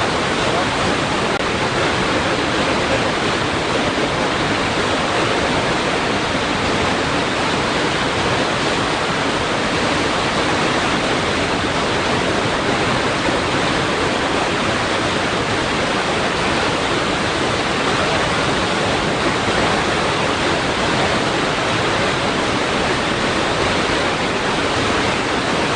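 Water rushing against rocks: a steady, unbroken rush of noise.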